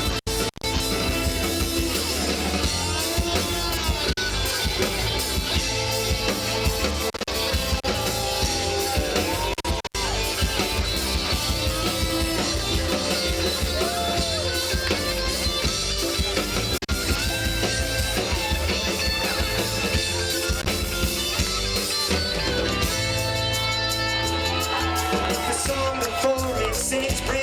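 Live roots reggae band playing a steady groove of bass, drum kit and guitar. The sound cuts out for an instant about ten seconds in.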